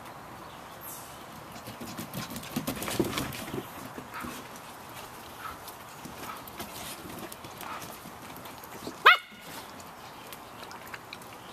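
Samoyed puppies scuffling and clicking about in play, busiest around two to three and a half seconds in; about nine seconds in, one puppy gives a single short, sharp yap, the loudest sound.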